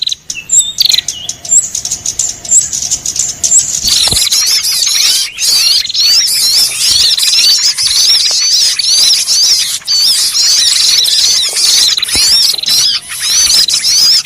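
Bird-lure recording of many small birds chirping and twittering at once, a busy chorus of quick high chirps that grows denser about four seconds in.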